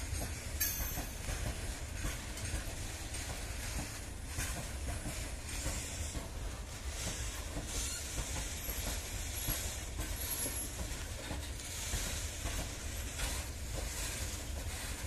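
Goods train of covered freight wagons rolling past with a steady low rumble and hiss, with the wheels clacking over rail joints now and then.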